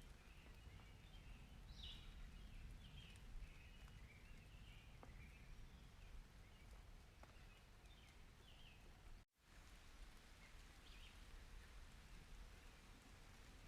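Faint nature ambience: a low steady rumble with scattered short bird chirps, cutting out completely for an instant about nine seconds in.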